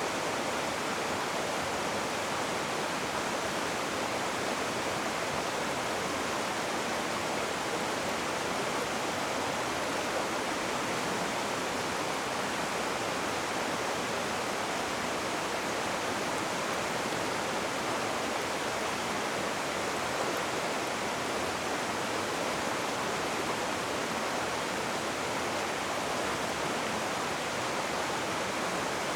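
Rushing water, a river or waterfall, as a steady, unbroken hiss with no distinct splashes or other events.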